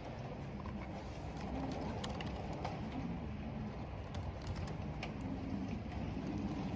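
Computer keyboard typing in scattered keystrokes, over a steady low rush of wind and rain. A low wavering tone comes and goes underneath several times.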